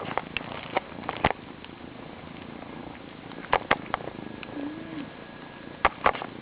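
Kitten purring steadily, with a few sharp clicks scattered through it.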